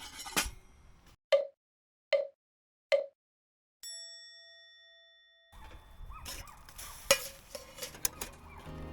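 Three short knocks about 0.8 s apart, then a single bell-like ding that rings and fades, all against dead silence. Outdoor background with small clicks returns near the end.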